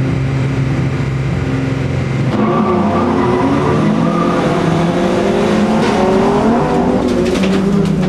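Volvo 240 folk-race car's engine held at steady revs on the start line, then about two seconds in it revs up as the car launches, the pitch climbing and falling as it accelerates away. Sharp clattering starts near the end, as the car runs in among the other cars on the gravel.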